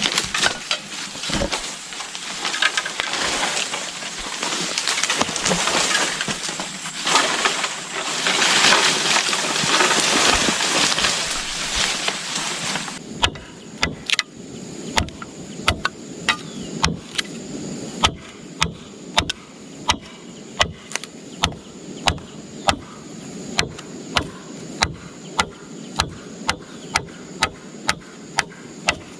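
Dense rustling and crackling for about the first half. Then a steady series of sharp strikes, about one and a half a second: a blade or tool striking wood or bamboo.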